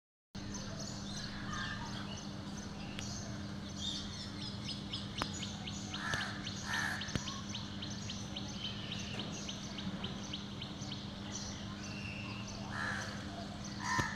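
Birds chirping with quick high notes, and a few short harsh crow caws: two about six to seven seconds in and two more near the end. A steady low hum runs underneath.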